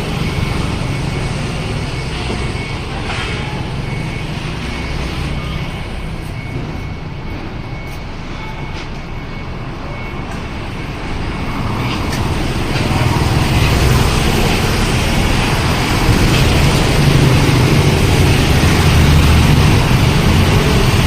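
A large truck engine runs amid street traffic, growing louder about halfway through. A faint, evenly repeating beep sounds for the first few seconds.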